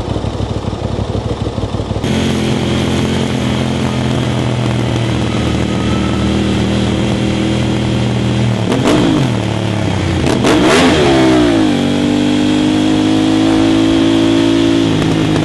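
Aprilia RS660 parallel-twin engine through an Arrow full exhaust with the dB killer fitted. It pulses unevenly at first, then runs at a steady note. Quick revs rise and fall about nine and ten seconds in, and it settles at a steady, slightly higher pitch near the end.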